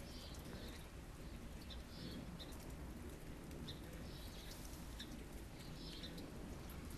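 Small birds chirping, short high calls repeating irregularly, over a low steady rumble.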